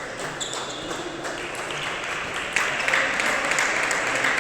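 Spectators applauding, the clapping building up and getting louder about halfway through.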